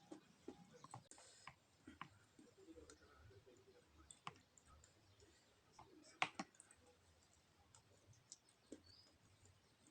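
Faint, irregular clicks and smacks of a person eating octopus, with one sharper click about six seconds in.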